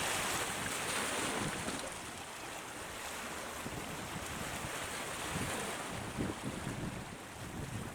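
Wind buffeting the microphone, with irregular low rumbles, over a steady wash of water and waves.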